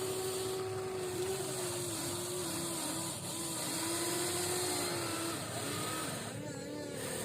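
Small electric motors of a toy RC excavator whining, the pitch wavering and dipping repeatedly as the load on them changes.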